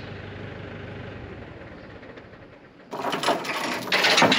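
An engine idling steadily, fading out over the first two seconds. About three seconds in, a loud rattling and scraping starts: a load chain being handled.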